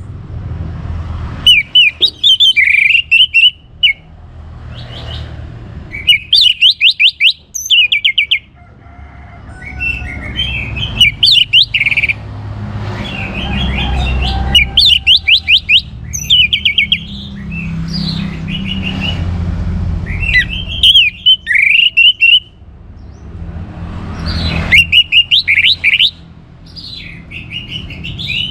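Orange-headed thrush (anis merah) singing in loud bursts of rapid whistled and chattering notes, a new phrase every two to four seconds. A low rumble runs underneath between the phrases.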